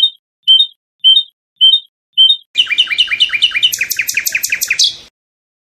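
Common nightingale singing one song phrase: five short repeated notes about half a second apart, then a fast trill lasting about two and a half seconds that stops abruptly.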